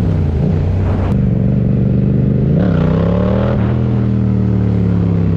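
Motorcycle engine running under changing throttle: its pitch dips, climbs about halfway through, then slowly eases down.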